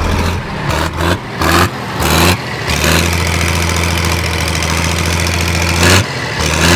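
An engine idling steadily, with several short, loud bursts of noise in the first couple of seconds and again near the end.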